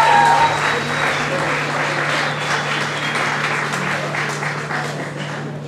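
Audience applauding as the last held notes of the music die away; the applause slowly fades.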